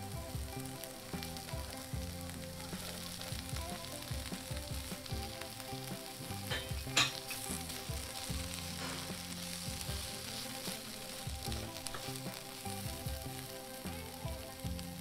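Onion, capsicum and paneer sizzling in hot oil in a pan while a spatula stirs them, a steady frying hiss. About seven seconds in there is one sharp knock.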